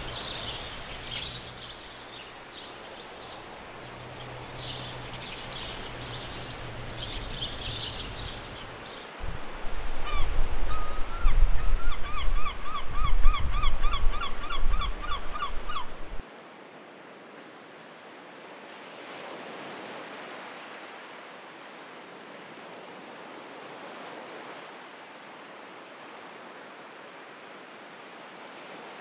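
Birds calling: small high chirps for the first nine seconds, then, loudest, a larger bird's rapid run of calls, about three a second, for some six seconds. After that, a steady soft wash of noise with no calls.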